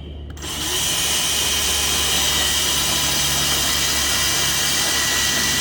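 Power drill driving a self-tapping screw into a van's metal side step. The motor starts about a third of a second in and runs steadily with a high whine.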